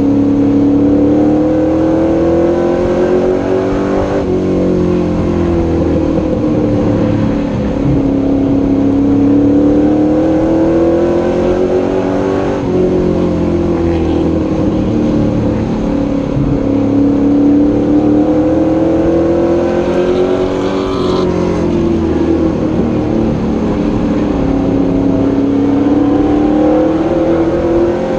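Superstock pro truck's engine heard from inside the cab at race pace, the pitch climbing steadily down each straight and dropping as the driver lifts for the turn, three times over: laps of a short oval.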